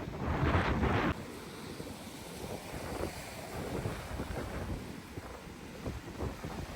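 Strong wind buffeting the microphone in gusts, loudest for about the first second and then easing to a lower gusty rumble, with waves on the shore beneath.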